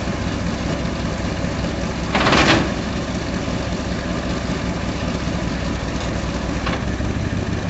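The 1965 Ford F600 tow truck's engine idling steadily, with a brief rush of noise about two seconds in.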